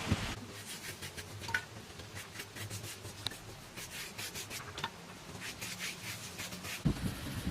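Repeated short scraping strokes, several a second and irregular, with a few light clicks among them; a duller knock near the end.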